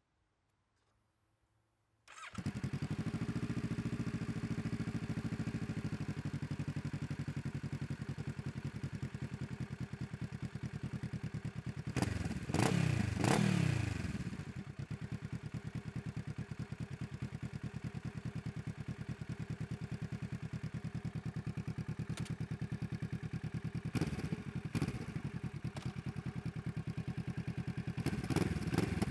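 Kawasaki Z650 engine starting about two seconds in, then idling with an even, loud pulse through an Ixil aftermarket exhaust with its dB killer removed. The throttle is blipped a couple of times about halfway through, and twice more near the end, the revs rising and falling each time.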